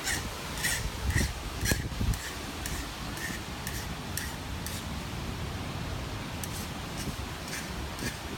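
Steady hurricane wind hiss, lighter than the gusts around it, with a run of short, sharp, high-pitched chirps, about two a second at first and sparser later on.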